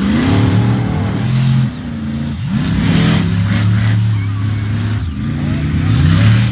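Monster truck engine revving hard, its pitch climbing and falling as the throttle is worked. It rises right at the start, again about two and a half seconds in, and once more near the end, holding steadier in between.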